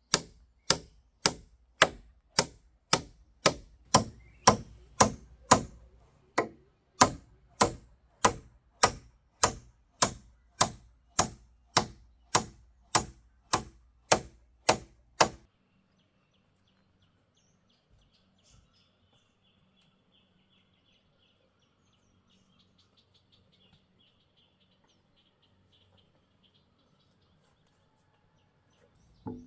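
Steady, evenly spaced blows of a hand tool on wood, about three every two seconds, stopping abruptly about halfway through. After that, only faint high chirping.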